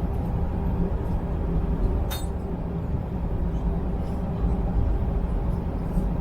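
Steady low rumble of an Airbus A320's cabin, engine and airflow noise, with one sharp clink about two seconds in.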